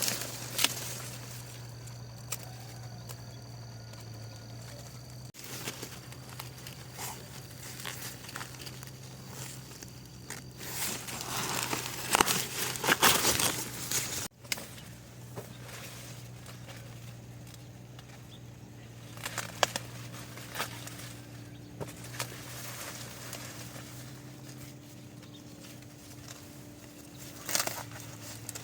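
Rustling and crackling with scattered clicks, loudest for a few seconds around the middle, over a steady low hum.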